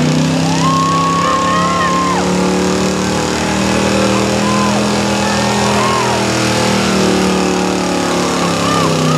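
Pickup truck engine running steadily, not revving up, with voices mixed in.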